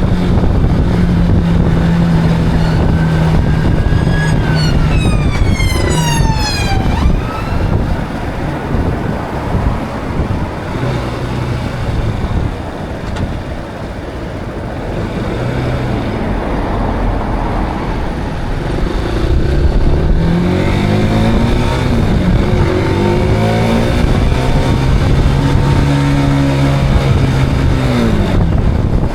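Zontes cruiser motorcycle engine running under way over steady wind rush. The pitch falls about five seconds in as the bike slows, and from about twenty seconds in it rises and drops repeatedly as the bike accelerates through the gears.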